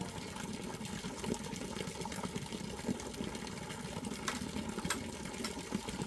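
A steady low mechanical hum with a few faint clicks scattered through it.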